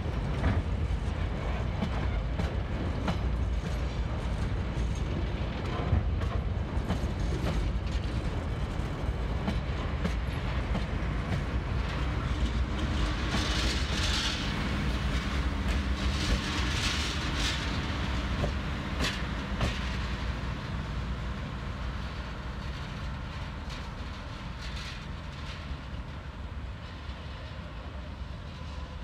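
Cement hopper wagons of a freight train rolling slowly past, with a steady low rumble and wheels clicking over the rail joints. A brighter, hissing scrape swells and fades about halfway through.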